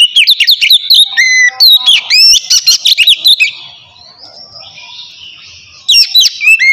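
Oriental magpie-robin singing a loud, rapid run of varied whistled notes sweeping up and down. The song pauses about three and a half seconds in, leaving fainter birdsong, and starts again near the end.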